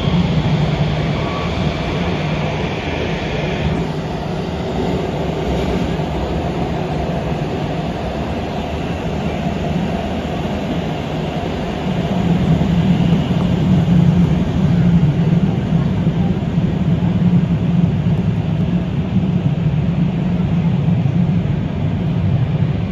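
Beijing Subway Line 6 train running between stations, heard from inside the car: a steady rumble of wheels and running gear that gets louder about halfway through.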